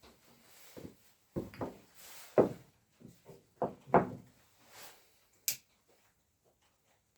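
A series of irregular knocks and thuds, with rustling or scraping in between and a sharp click about five and a half seconds in, like things being handled and set down in a small room.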